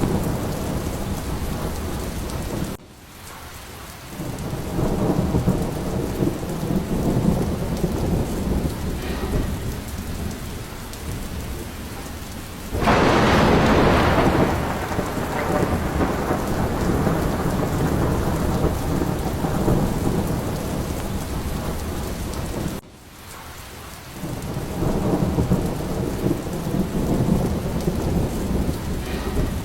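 Steady rain with rolling thunder. A sharp, loud thunderclap comes about halfway through and fades over a couple of seconds. The sound drops out suddenly and briefly twice, before rumbles build again.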